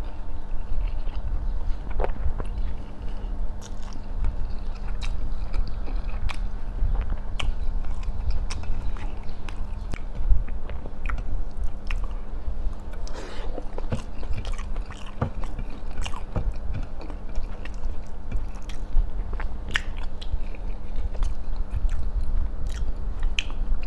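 A man chewing chicken rice close to a clip-on microphone: continuous wet chewing and mouth sounds with many small clicks and smacks scattered throughout.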